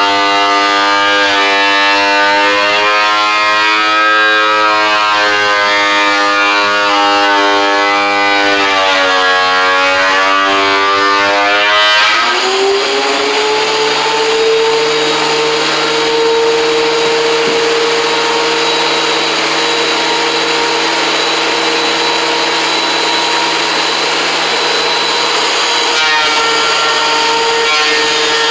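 Electric woodworking machine motor running, its pitch sagging and recovering as if under changing load. About twelve seconds in there is a click, and it changes to a steady, higher whine with more hiss.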